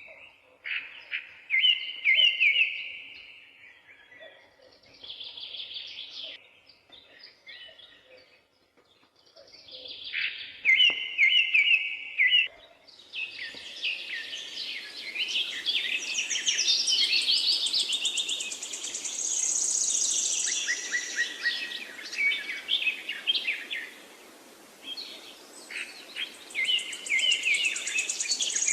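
Several wild birds singing and chirping, one repeating the same short warbled phrase every several seconds. From about halfway in, a steady rushing noise rises underneath and the song grows denser, with a high trill joining near the end.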